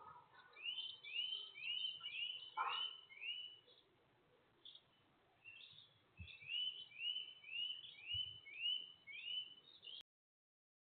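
A songbird singing two runs of about six quick, repeated rising notes, with a pause between the runs, over a few faint knocks. The sound cuts off abruptly near the end.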